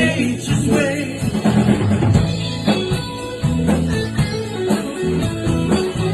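Rock band playing a song: electric guitar and bass over a drum kit with a steady beat.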